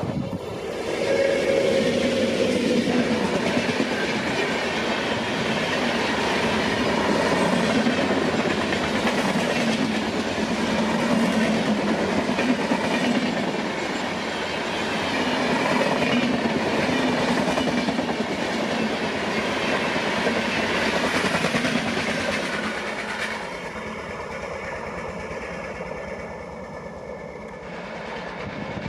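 A passenger train of LHB coaches hauled by a WAP-7 electric locomotive running past at speed, its wheels rumbling and clattering on the rails. The sound eases about 23 seconds in as the train goes by.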